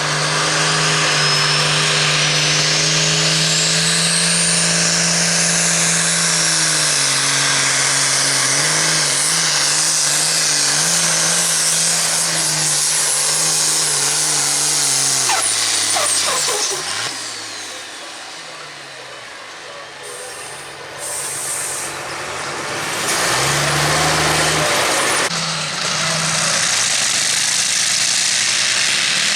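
Heavy modified pulling tractor's engines at full power with a high whine that rises over the first few seconds and then holds. About 16 seconds in the engines are shut off and the whine falls away. After a quieter stretch the engine noise builds again from about 23 seconds.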